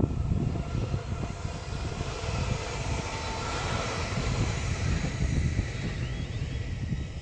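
Stadler FLIRT electric multiple-unit train passing at speed: a rush of wheels on rail with a faint motor whine. It builds to a peak about four seconds in as the train goes by, then fades.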